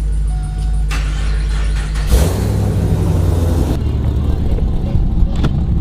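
Car engine running with a steady low hum; about two seconds in the rumble turns louder and rougher, with a burst of hiss that cuts off suddenly a second and a half later.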